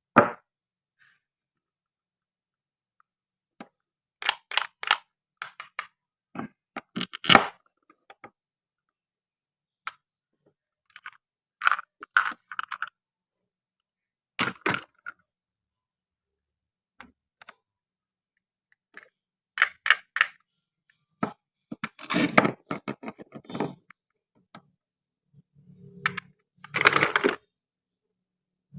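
Sharp clicks, cracks and taps in short irregular clusters, from toy fruit and vegetables of wood and plastic being cut apart and handled, with a longer scraping sound near the end.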